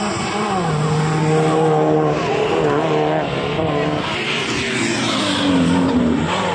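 Rally car engine held at high revs, its pitch stepping down about half a second in, holding steady, then sliding lower near the end, with a rushing hiss over the middle seconds.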